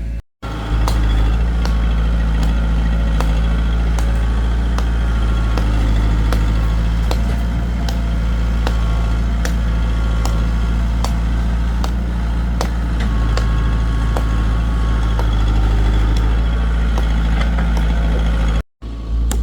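Heavy vehicle engine running steadily with a low hum, with repeated sharp clicks over it.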